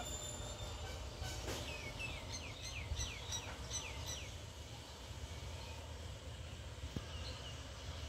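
Bird chirping: a quick run of short, falling chirps, about three a second, from about a second and a half in to four seconds in, then a couple of faint chirps near the end. A steady low rumble runs underneath.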